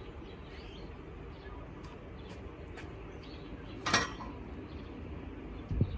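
Birds chirping faintly over a low steady rumble, with one sharp knock about four seconds in.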